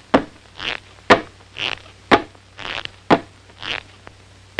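Cartoon sound effects in a steady rhythm: a short sharp click about once a second, each followed by a hissy, breathy burst, over the faint hum of an old film soundtrack.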